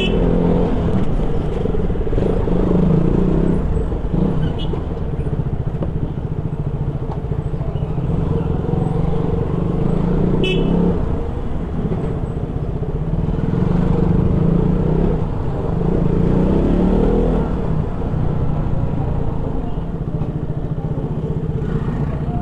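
KTM Duke 200's single-cylinder engine running under way, its pitch rising and falling with the throttle, with wind rush over the microphone. A few short horn toots sound, the clearest about ten seconds in.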